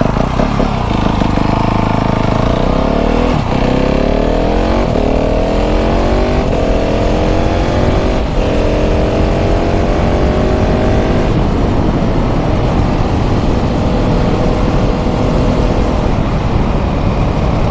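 KTM 690 SMC R's single-cylinder LC4 engine through a full LeoVince exhaust, pulling away and accelerating hard up through the gears: the pitch climbs, drops at each of four quick upshifts and climbs again, then settles to a steadier run for the rest.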